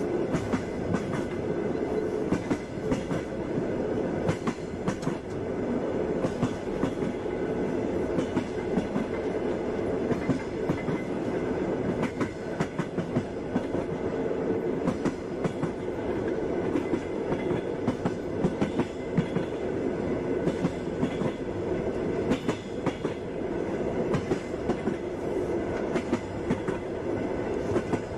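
Passenger train carriage running along the track: a steady rumble with frequent sharp clickety-clack of the wheels over the rail joints.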